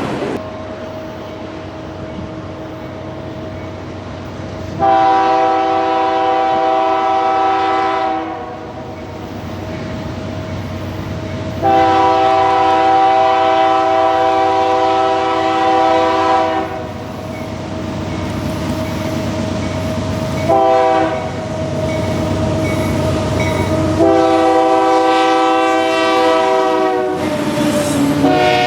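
Diesel freight locomotive's air horn blowing the grade-crossing signal: two long blasts, a short one, then a long one. Between the blasts the train's steady running noise carries on.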